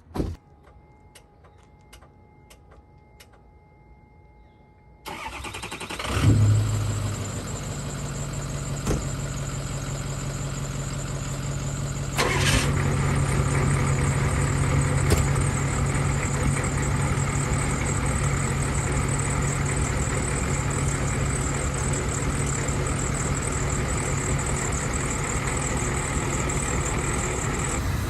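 A short thump, then a steady electronic tone with regular ticks for about four seconds. The Ford V8 diesel pickup engine then cranks and catches about six seconds in on a cold start after sitting all winter, and settles into a loud, steady idle.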